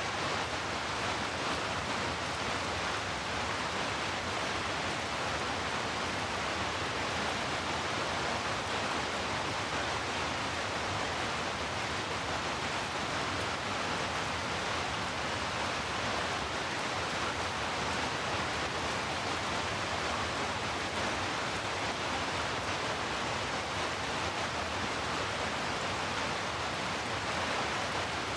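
Steady heavy rainfall mixed with brown noise: an even, unbroken hiss with no separate drops or other events.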